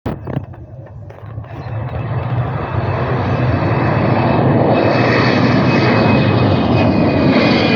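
Airliner engines running loud, building up over the first few seconds and then holding steady, with a high steady whine over the rumble.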